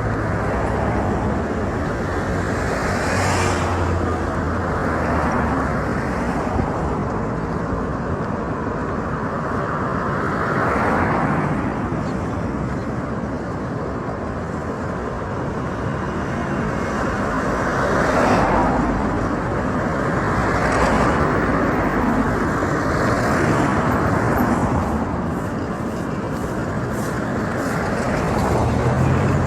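Road traffic passing along a street: a steady wash of noise with a vehicle going by every few seconds, and an engine hum low underneath at the start and near the end.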